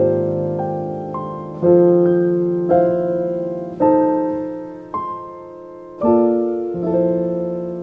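Slow, gentle piano music, with a new chord or note struck about once a second and left to ring and fade.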